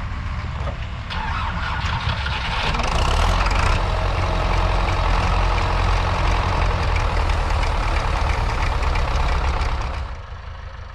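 MTZ-82 tractor's diesel engine running: it revs up a few seconds in, runs hard and loud, then eases back toward idle near the end.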